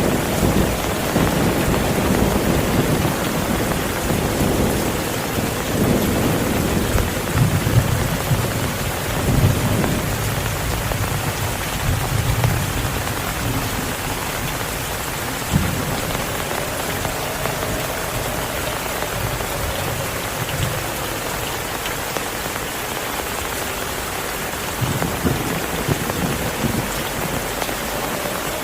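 Heavy rain falling steadily, with rolling thunder rumbling low through the first half and again briefly near the end.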